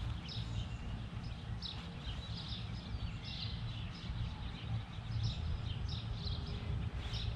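Small birds chirping repeatedly in short calls, over a steady low rumble.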